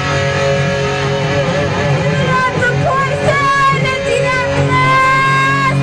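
Rock ballad playing, with an electric guitar taking a solo of bent and held notes over bass and drums.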